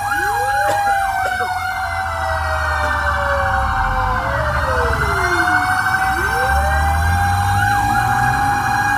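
Fire engine sirens sounding together: a wail that winds up near the start, falls away midway and winds up again about six seconds in, over rapid yelping sweeps and a steady held tone, with the truck's engine running low underneath.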